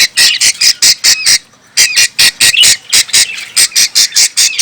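Budgerigars squawking: a rapid run of short, harsh, high calls, about five a second, broken by a brief pause about a second and a half in.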